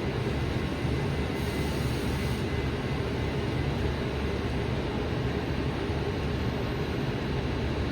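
Steady hum inside a stationary light rail car, from its air conditioning and onboard equipment running while it stands at the platform. A brief faint hiss comes about a second and a half in.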